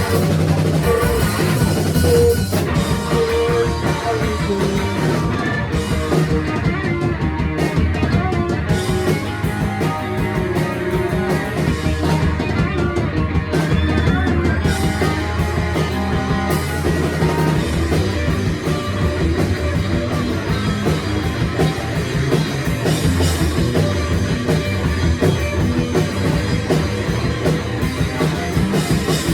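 A four-piece rock band playing live, with drum kit and guitar carrying a steady, loud rock song.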